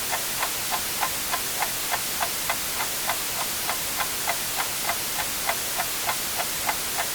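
Clock ticking evenly, about three ticks a second, over a steady hiss of white noise.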